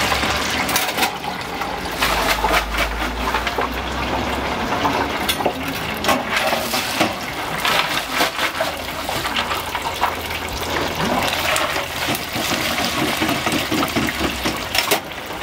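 Food frying in hot oil: a steady bubbling hiss with many small crackles.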